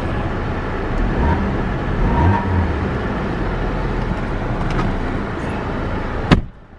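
2015 Dodge Dart's 2.4-litre engine running, heard as a steady rushing hum. About six seconds in, a car door shuts with a single thump and the sound drops much quieter.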